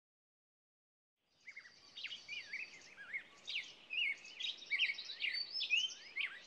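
Songbirds singing and chirping in short, quick whistled phrases, fading in after about a second and a half of silence.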